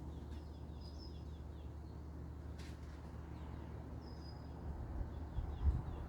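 Small birds chirping: runs of quick, short chirps and two brief high whistles, over a steady low hum. About three-quarters of the way in, an uneven low rumble joins.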